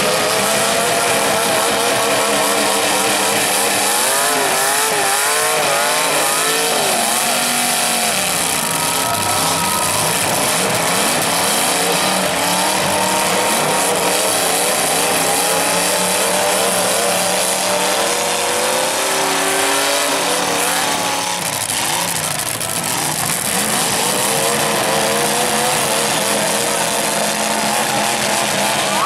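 Several demolition derby cars' engines revving hard together, their pitch swooping up and down again and again as the cars accelerate and ram one another.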